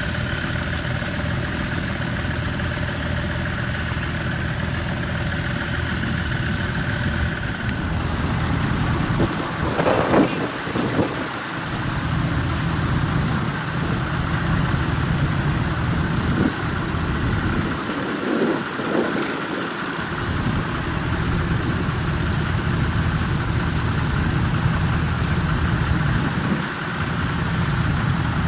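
Tractor engine running steadily, with a change in its note about eight seconds in and brief louder surges around ten and nineteen seconds in.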